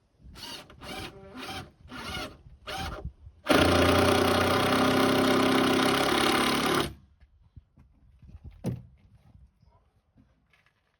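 A power tool's motor, run in five short bursts and then held on for about three seconds before stopping suddenly, with a single knock near the end.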